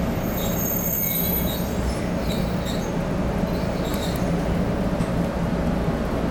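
Electric train cars rolling slowly along a station platform, heard from inside the car: a steady running rumble, with a high thin wheel squeal in the first second or so and fainter squeaks after.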